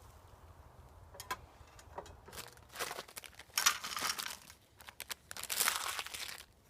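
Crinkling and crumpling of some rustly material being handled, in short rustles and then two longer, louder spells about halfway through and near the end.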